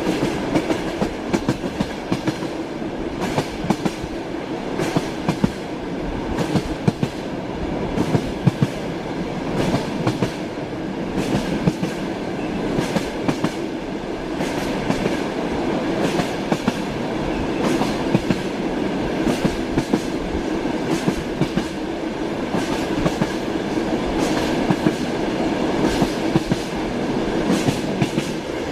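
Train wheels clacking over rail joints while the train runs at speed, with frequent irregular knocks over a steady rumble and drone of the moving carriage.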